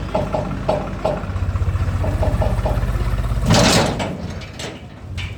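Diesel tractor engine running with an even low beat, cut across about three and a half seconds in by a short loud rush of noise, after which the engine sound drops away.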